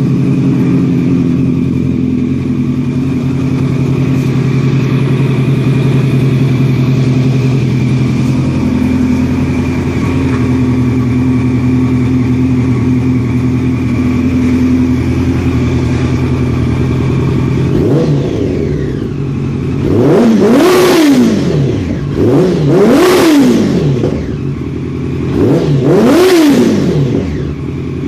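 Yamaha FZ8's warmed-up inline-four engine with a Two Brothers slip-on exhaust, idling steadily. About two-thirds of the way in it is blipped lightly, then revved hard three times, the pitch rising and falling back each time, with another rev starting at the very end.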